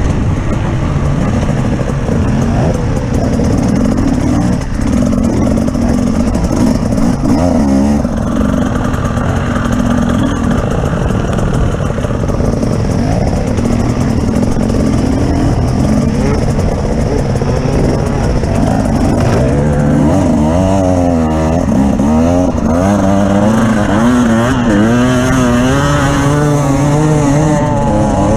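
Engine of an off-road vehicle being driven over rough ground, its pitch rising and falling again and again as the throttle is worked, with quicker, deeper swings in the last third.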